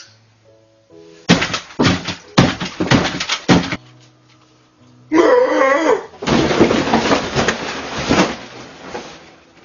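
Cartoon eating sound effects: two runs of loud, rapid crunching and chomping noise, split by a short wavering cry about five seconds in, over quiet background music.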